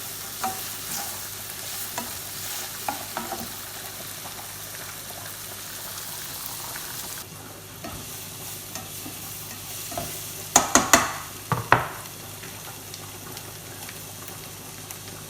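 Peppers and onions sizzling in a frying pan while a utensil stirs and scrapes through them, with small scattered clicks. About ten and a half seconds in comes a quick cluster of sharp clatters, then a single knock just after.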